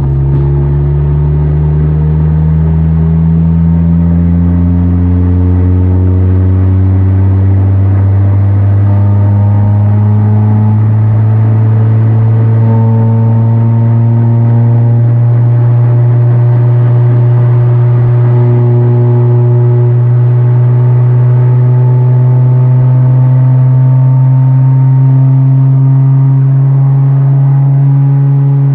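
Kia K5 DL3 1.6-litre turbo four-cylinder with a tuned aftermarket exhaust, droning under load while driving, its pitch climbing slowly and steadily as the car picks up speed.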